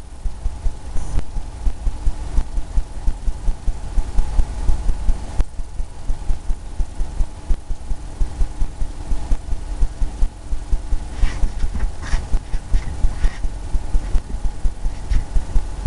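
Rhythmic dull thumps, about three a second, of a brush dabbing and stippling paint onto a canvas on an easel, with a few sharper taps and clicks near the end.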